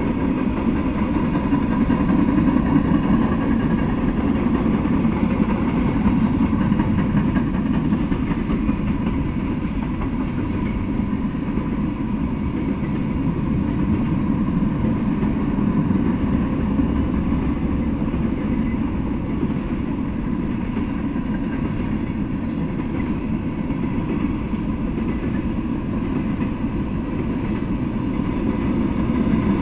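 Freight train of tank cars and covered hopper cars rolling past on the track, its wheels making a steady rumble on the rails.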